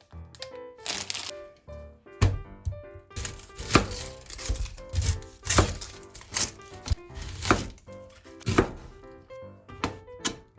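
Background music, and from about two seconds in, a series of knife chops on a cutting board at an uneven pace, roughly two a second.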